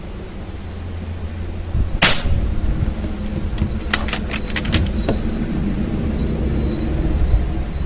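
An air rifle firing a pellet once, a sharp report about two seconds in, followed a couple of seconds later by a quick run of light clicks. Wind buffets the microphone throughout as a low rumble that grows louder.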